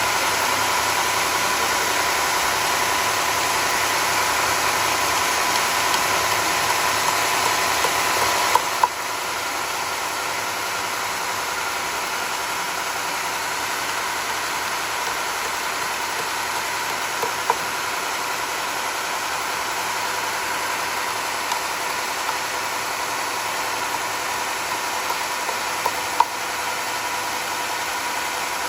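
Sawmill running steadily, a continuous mechanical whine with hiss. The level drops slightly about nine seconds in, just after a couple of sharp clicks, and a few more single clicks follow later.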